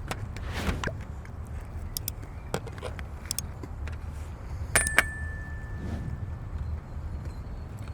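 Metal utensils clicking and tapping against camp cookware, with one sharp ringing metallic strike about five seconds in, over a steady low rumble.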